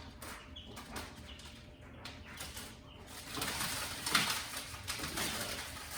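Baby chicks peeping, with a hiss of noise that grows louder about three seconds in.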